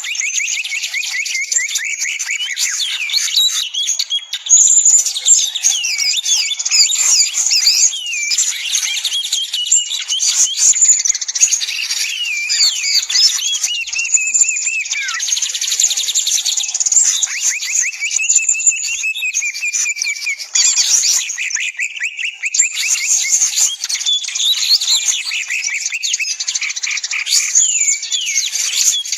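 Dense, continuous chorus of small songbirds: many overlapping quick chirps, whistled sweeps and rapid trills with no pause.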